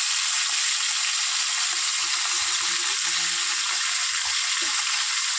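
Small slit eggplants frying in mustard oil in a kadhai, with a ground mustard-and-garlic paste just spooned on top: a steady sizzle.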